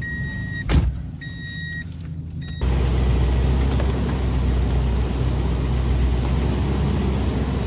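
Toyota truck's engine idling while a dashboard warning chime beeps about three times, with a single thump just under a second in. About two and a half seconds in the chime stops and a louder steady rushing noise sets in over the engine.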